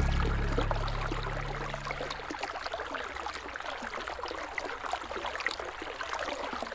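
River water flowing and trickling, with many small splashing ticks. A low sustained music chord fades out about two seconds in, leaving only the water.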